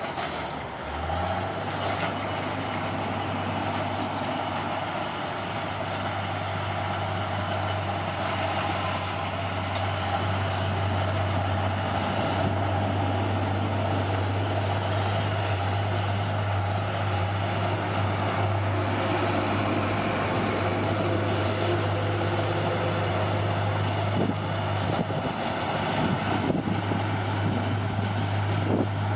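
Caterpillar D6R bulldozer's diesel engine running steadily at working revs, its note dipping and picking back up about a second in.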